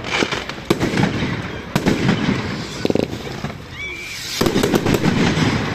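Fireworks going off in quick succession: many sharp bangs and crackles overlapping, with a short lull in the middle.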